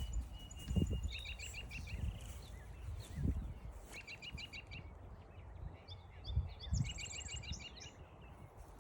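A songbird singing three short phrases of quick repeated notes, the last one ending in a high, fast trill, over a low wind rumble and a few soft footsteps.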